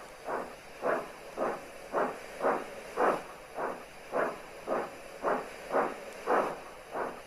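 Steam locomotive chuffing steadily, a regular beat of about two exhaust puffs a second.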